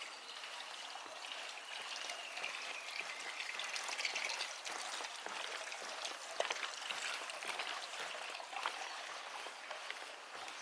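Water trickling and splashing: a steady wash of running water with many small splashes all through it.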